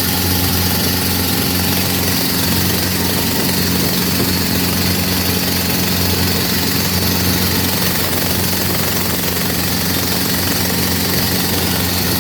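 Boat engine running steadily at constant speed, a low even drone with a steady hiss over it.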